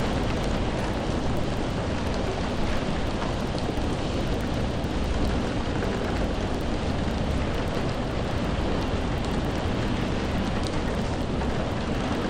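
Steady rain: an even, unbroken hiss with a strong low rumble underneath and a few faint separate drop ticks.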